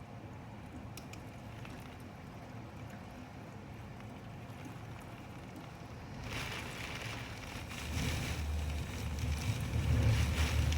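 Typhoon wind gusting: a low steady rumble, then a hissing gust that rises about six seconds in and grows louder near the end.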